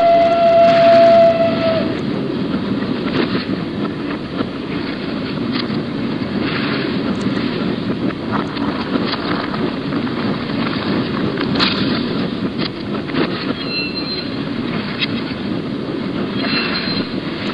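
Narrow-gauge train running: a steady rumble with scattered clicks and faint high-pitched wheel squeals near the end. It opens with a single-note blast of the train's whistle or horn lasting about two seconds.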